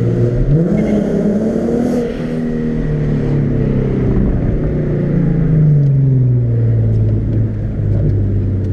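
Nissan 370Z's V6 engine under throttle through a corner. The revs jump sharply about half a second in and hold, climb again midway, then fall away toward the end.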